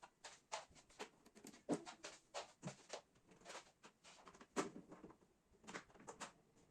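Light, irregular clicks and knocks of household items being handled and set down, two or three a second.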